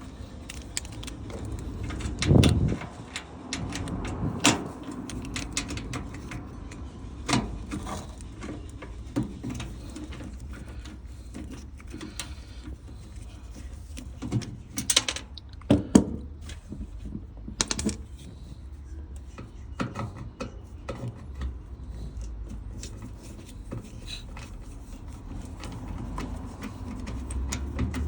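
Irregular clicks, taps and clunks of a Vestel washing machine drain pump and tools being handled while the pump is taken apart, with a louder knock about two seconds in and another near the middle, over a low hum.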